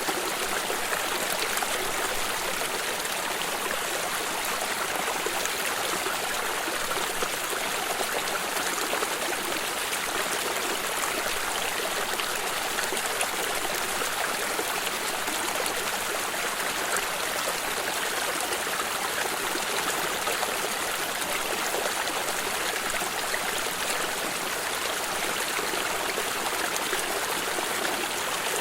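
A water stream flowing and trickling steadily, with an even rushing hiss and fine splashing detail and no change in level.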